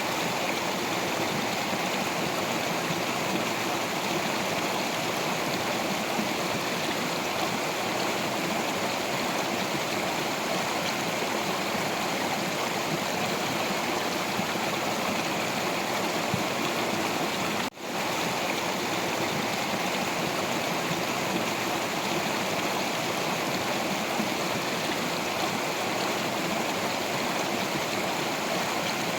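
Stream water flowing and splashing over rocks in a steady, even rush. It cuts out for an instant about two-thirds of the way through.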